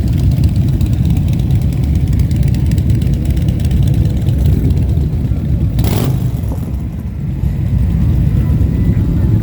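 Motorcycle engines running with a steady low rumble, and a short hiss about six seconds in.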